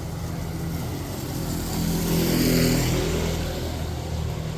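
A motor vehicle passes close by, its engine and tyre hiss on the wet road swelling to a peak about halfway and then fading, over a steady low engine hum.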